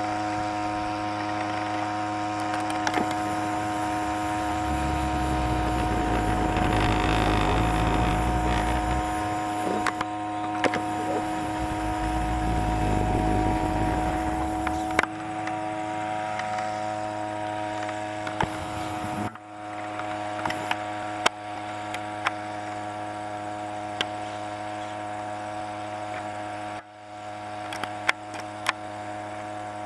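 Small motor of a homemade boat running steadily with a constant hum. A louder rushing noise rises from about four seconds in and drops off suddenly around fifteen seconds, and several sharp knocks sound in the second half.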